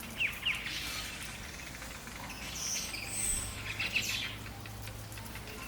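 Weaver birds calling: two quick downward chirps just after the start, then scattered short, high chattering calls through the middle.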